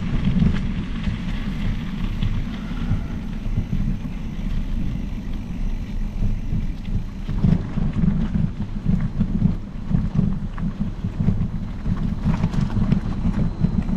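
Wind buffeting the microphone of a camera riding along on a mountain bike, a loud, gusting low rumble, mixed with the tyres rolling over the trail. A couple of brief rattles come from bumps about halfway through and again near the end.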